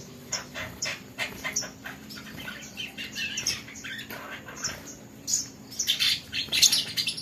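Small caged songbird sold as a 'kolibri ninja' (sunbird) giving rapid, irregular high chirps and twitters, coming thicker and louder about five seconds in.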